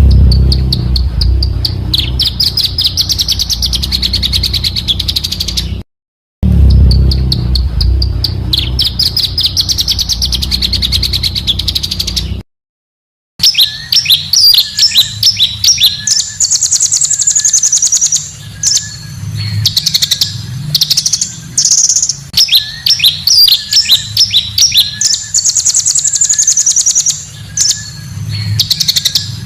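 Small songbirds singing rapid, harsh chirping bursts and long rolling trills, spliced together as a compilation of songs, with two abrupt silent cuts between recordings.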